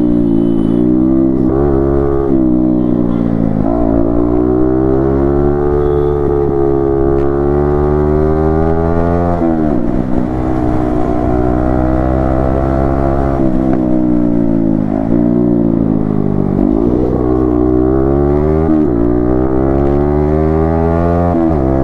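Yamaha MT-15 V2's 155 cc single-cylinder engine under hard acceleration while riding, the exhaust note climbing in pitch and dropping sharply at each of several upshifts.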